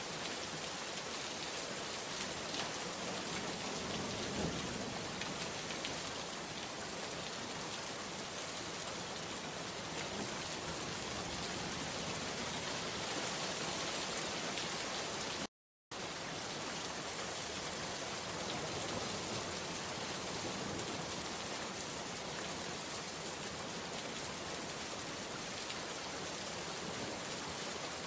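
Steady rain falling, an even hiss of many drops. About halfway through, the sound cuts out completely for about half a second, then resumes.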